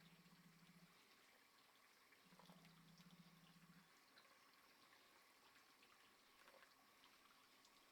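Near silence: faint room tone with two brief low hums, in the first second and again from about two to four seconds in, and a few faint ticks.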